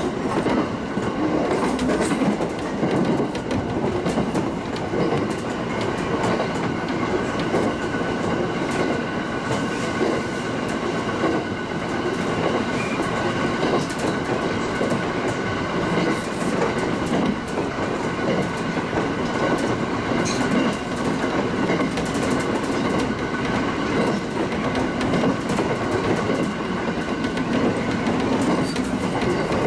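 Local passenger train running along the track, heard from on board: a steady rolling rumble with a faint steady whine and irregular clicks from the wheels passing over rail joints.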